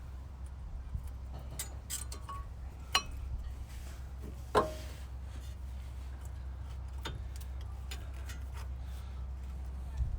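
Metal brake parts and hand tools being handled: scattered light clinks and ticks, with two sharper metallic clanks about three and four and a half seconds in. A steady low hum runs underneath.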